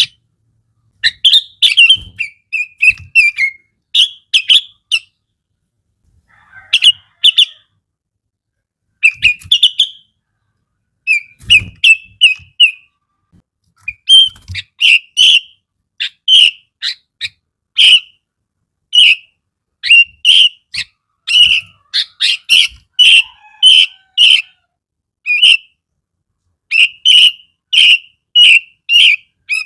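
Sooty-headed bulbul (kutilang) singing loud, short, repeated notes in quick phrases broken by pauses of a second or two. About halfway through the notes settle into a steady run of roughly two a second.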